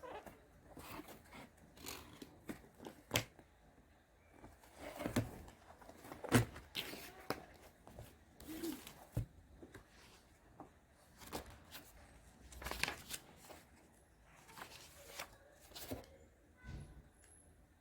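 Irregular small handling sounds: scattered clicks, taps and brief rustles of objects being moved and set down.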